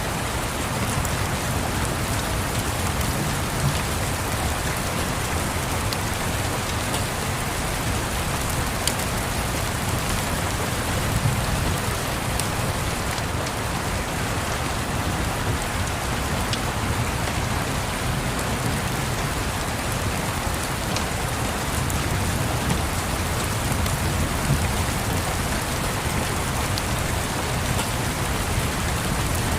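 Steady rain mixed with a crackling fireplace: a constant hiss of rain with scattered sharp pops, over a low rumble.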